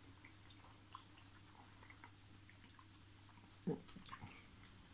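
Faint sounds of someone eating noodles: quiet chewing with scattered small clicks, and a short low "mm" about three-quarters of the way through.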